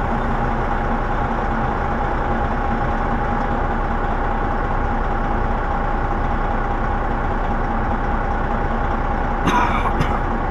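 Freightliner semi-truck's diesel engine running steadily with a failed turbocharger that gives no boost. A short higher squeak and a click come near the end.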